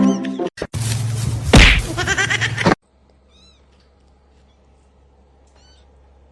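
Cat sounds: a loud stretch with a sudden hit about a second and a half in that cuts off abruptly near three seconds, followed by two short, high, arching mews over quiet.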